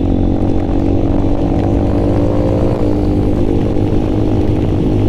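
Small motorcycle engine running under way, a steady drone whose pitch eases slowly down as the bike slows.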